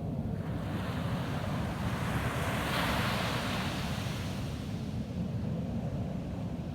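Ocean wave breaking on a sandy beach: the surf's hiss swells about half a second in, peaks after a couple of seconds and washes away, over a steady low rumble of surf and wind.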